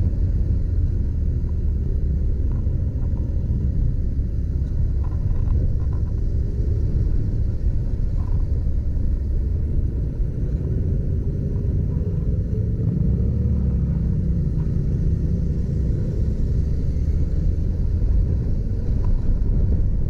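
Motorcycle engine running under way, with a steady low rumble of wind and road; its pitch climbs slowly a few times in the second half.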